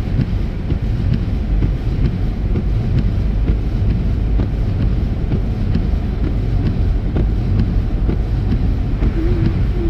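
Steady low rumble of a car's tyres and engine heard from inside the cabin, driving along a snow-covered highway.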